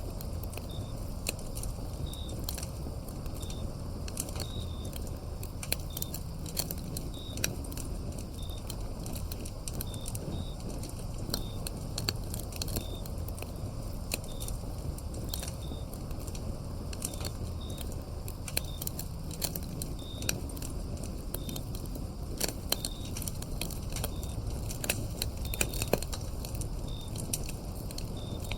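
Firewood burning, crackling with irregular sharp pops over a low, steady rumble of the flames. Autumn crickets chirp in short, high-pitched notes repeating throughout.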